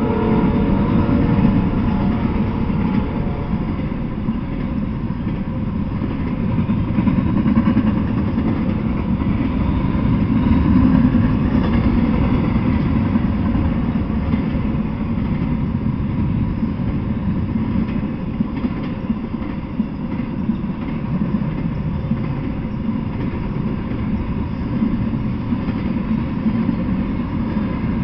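Double-stack intermodal freight train passing close by at speed: a steady, loud rumble of the wheels running on the rails.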